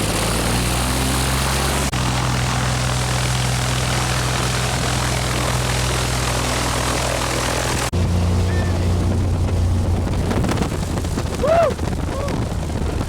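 Propeller airplane engine running steadily, a constant drone whose pitch jumps abruptly about two and eight seconds in. A short rising-and-falling tone comes in near the end.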